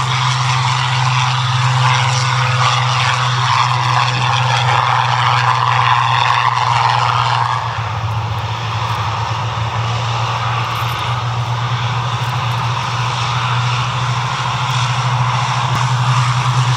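Several Spitfires' and Hurricanes' piston V12 engines running steadily as the fighters start up and taxi out, a continuous loud propeller-engine drone.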